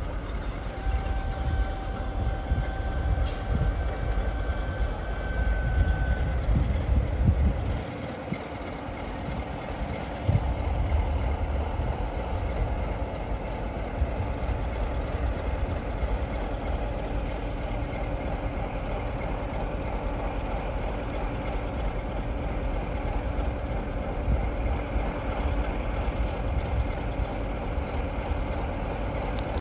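A train running on the tracks, a steady rumble throughout, with a faint high steady tone for a few seconds near the start.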